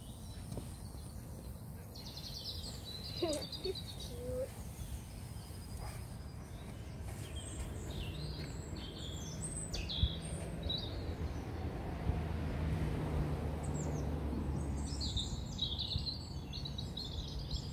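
Small birds chirping in several short runs of high calls over steady low outdoor background noise, with a low steady hum that builds from about eight seconds in and is the loudest sound near the end.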